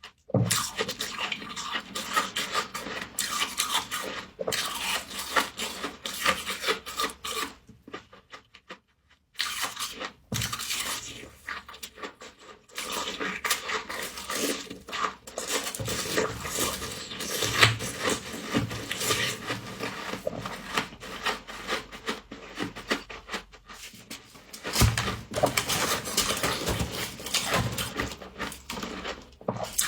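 Humidifier frost being crunched and scraped in dense, rapid crackling strokes, with a short break about eight seconds in.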